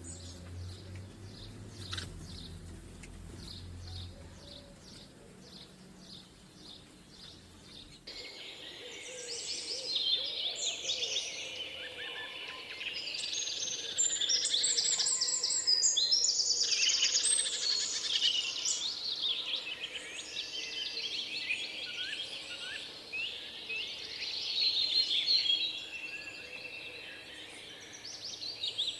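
Wild birds singing. At first a single bird repeats a short high chirp about three times a second over a low hum. About eight seconds in, this gives way abruptly to a louder, dense chorus of many birds warbling and trilling together.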